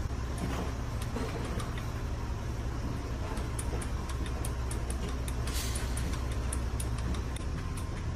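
Steady low mechanical hum, with light ticking clicks repeating about three to four times a second from midway on.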